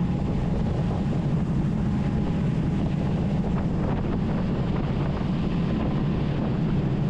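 Boat engine running with a steady low drone, wind buffeting the microphone over it.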